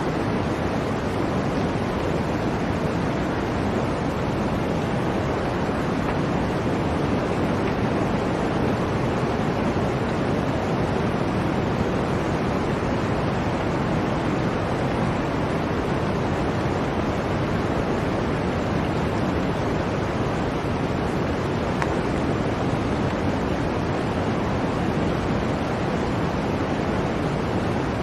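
Steady blizzard wind, a dense even rushing with no gusts or breaks.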